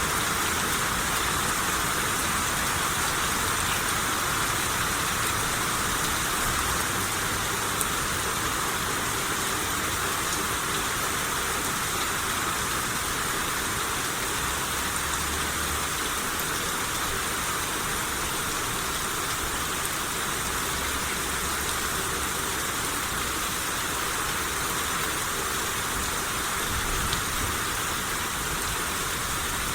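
Steady rain shower falling: an even, unbroken hiss of rain on surfaces, with a few separate drop ticks.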